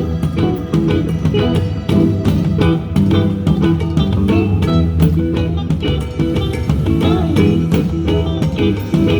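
Live band playing an instrumental passage: guitar out front over bass and a steady beat.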